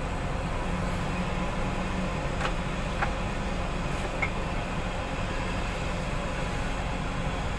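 Heavy earthmoving equipment's diesel engine running steadily, with a few light knocks near the middle.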